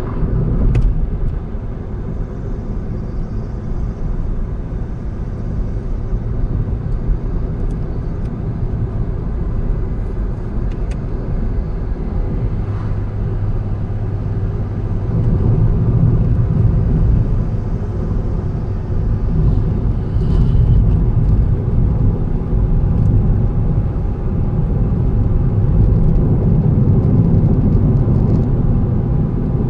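Car driving along a road: a steady low rumble of engine and tyre noise that grows louder about halfway through, with a few faint knocks.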